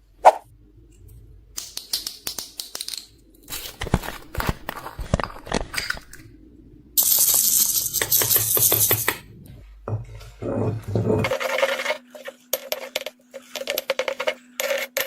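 Small beads and plastic pieces being mixed into slime, clicking and clattering in a string of short, abruptly cut segments, with a denser crackling stretch about halfway through.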